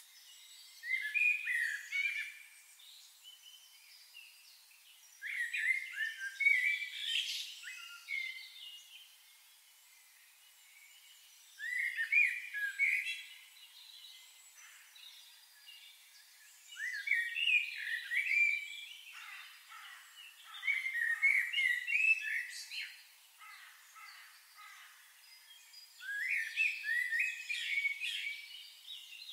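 A songbird singing repeated phrases of quick, jumbled chirping notes, each a second or two long, coming about every five seconds.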